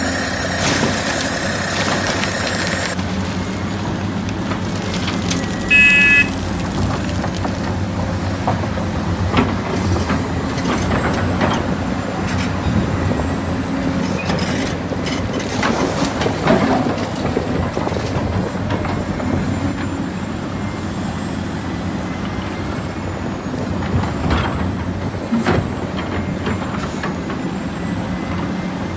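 Radio-controlled model construction trucks and excavator running: a steady engine-like hum with scattered clicks and scrapes, and a short beep about six seconds in.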